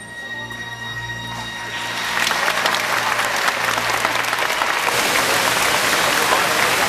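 Theatre audience applauding, the clapping swelling in over the first two seconds and staying loud, over the last held notes of the show's music.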